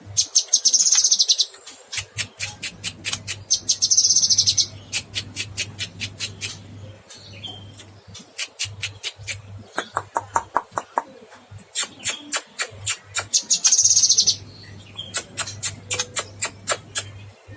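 Cucak kinoy singing vigorously: fast runs of sharp, repeated chipping notes broken by three dense, high buzzing trills. A faint low hum comes and goes underneath.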